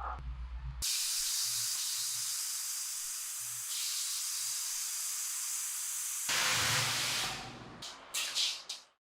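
A spray tool hissing in a long steady blast that grows fuller near the end. A few short bursts follow before it cuts off.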